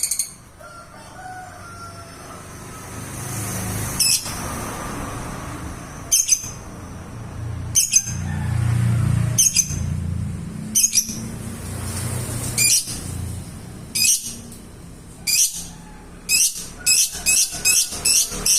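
Lovebird giving short, shrill high-pitched chirps, spaced a second or two apart at first and coming in a quick run near the end, over a low background hum.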